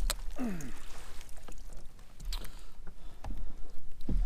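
Knocks and light water noise in and around a plastic fishing kayak as a hooked bass is brought in, with a sharp click at the start and a short, steeply falling sound about half a second in.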